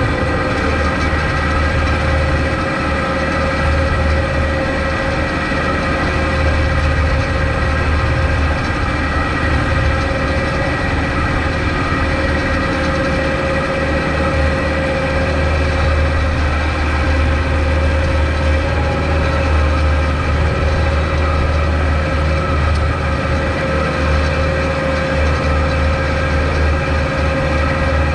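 Kubota MX5200 tractor's four-cylinder diesel engine running at a steady speed, with a constant tone through the engine note.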